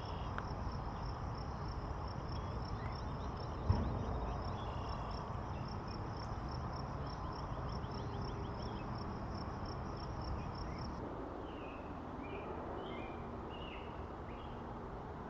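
A cricket-like insect chirping in a steady high-pitched pulse, about four a second, which stops about eleven seconds in. Short bird chirps come and go, more of them near the end, over a low wind rumble, with one sharp bump near four seconds.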